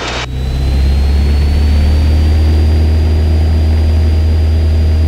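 Cessna 172's engine and propeller brought up to full power for the takeoff roll: a loud, steady drone whose pitch rises over the first couple of seconds, then holds.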